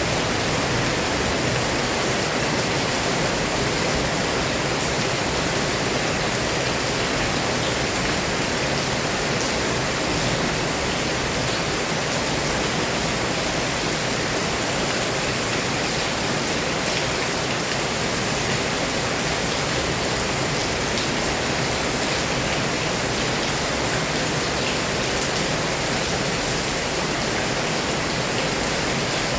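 Heavy rain pouring down, a steady dense hiss with a few faint drop ticks.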